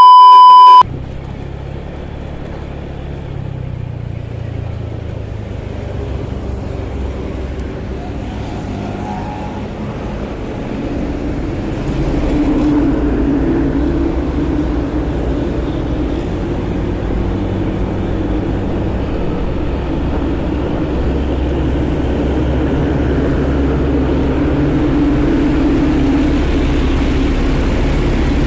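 A short, very loud beep tone, then a motorcycle running on the road with steady engine, wind and traffic noise that grows louder about twelve seconds in.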